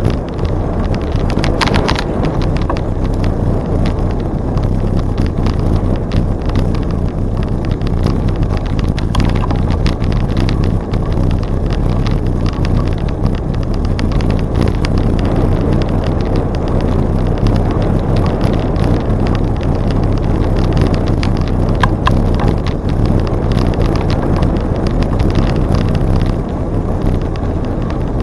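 Wind rushing over the microphone of a camera on a moving bicycle, steady and loud, with scattered light clicks and rattles from the bike rolling over the trail.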